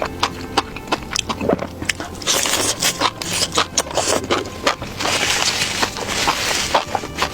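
Close-up eating sounds: a quick run of small clicks and crunches, with two longer stretches of crackling, scraping noise about two seconds in and about five seconds in.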